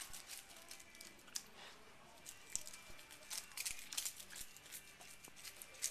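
A cat chewing and tearing at dry sheets of green seaweed: faint, irregular crinkly crunches and crackles.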